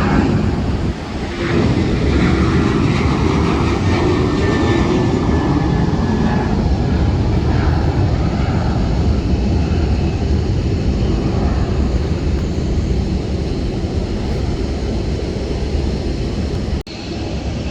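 Jet airliner's engines, a loud steady noise heavy in the low end that eases slightly toward the end. A sudden brief dropout comes near the end.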